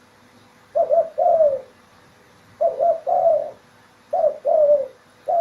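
Spotted dove (tekukur) cooing: a repeated call, each a quick double coo followed by a longer falling coo, given about every one and a half to two seconds, three full calls and the start of a fourth.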